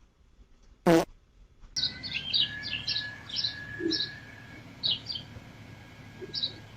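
A brief, loud buzzy blare about a second in. After it, small birds chirp in quick short notes for a few seconds, with one more chirp near the end and a faint steady whine beneath.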